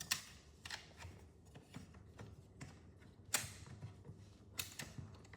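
A few sharp clicks and light rattles, a second or more apart, from handling a strip of 23-gauge pin nails and the pin nailer's magazine while loading it.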